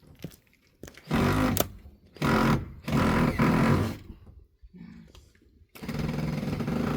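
Cordless drill-driver running in three bursts, driving screws into pallet wood: about a second, then nearly two seconds, then just over a second near the end. The screw is struggling to go in, which the user puts down to the tool lacking power.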